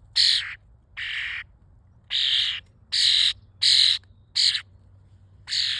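A bird giving about seven harsh, raspy calls in a row, each about half a second long. They are begging calls from a bird that wants to be fed a worm.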